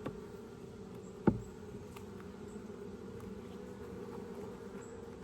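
Honeybees buzzing steadily around an open hive frame during an inspection, with a sharp knock about a second in.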